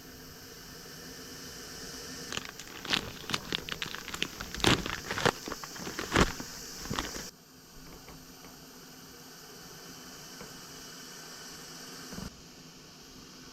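Packaging being crinkled and torn open, a run of sharp crackles and clicks lasting about five seconds, over a steady background hiss.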